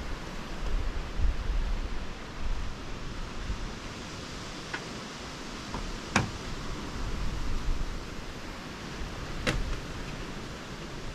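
Outdoor ambience: wind buffeting the microphone over a steady hiss, with light rustling. Two sharp clicks a few seconds apart past the middle.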